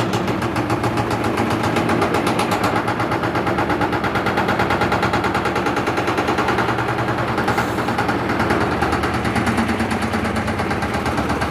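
LT13B washing machine running with a loud, steady, rapid rattling knock, the suspension making a lot of noise during a suspension test.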